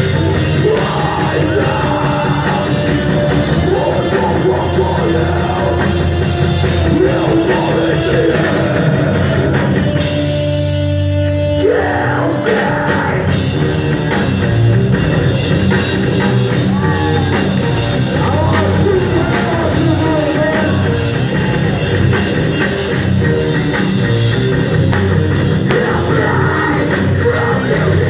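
Heavy rock music with drums, distorted guitars and singing. About ten seconds in, the drums drop out for a couple of seconds under a held chord, then the full band comes back in.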